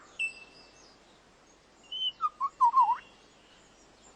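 Lyrebird singing: a short high note just after the start, then about a second of loud whistled notes that swoop up and down.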